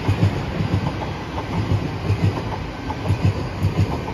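Passenger train running past, its wheels clicking over the rail joints in repeated pairs of deep beats as the carriages' bogies go by.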